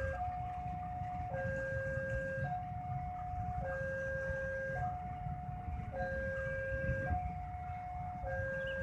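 Railway level-crossing warning signal sounding a steady two-tone electronic alarm. A higher and a lower tone alternate, each held a little over a second, repeating all through, over the low rumble of road traffic.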